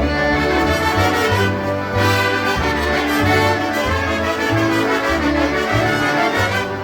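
Live polka music from a group of concertinas, playing a tune over a bass that pulses on a steady beat.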